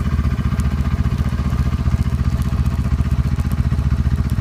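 Snowmobile engine idling steadily: a fast, even low putter that holds the same pitch throughout.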